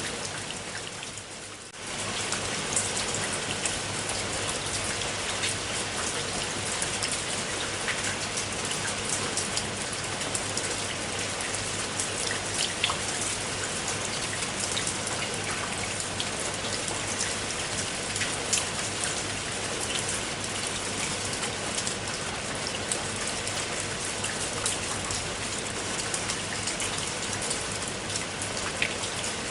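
Steady rain falling, with many separate drops ticking sharply on a surface through a dense hiss. The sound dips briefly just after the start and comes back to full level about two seconds in.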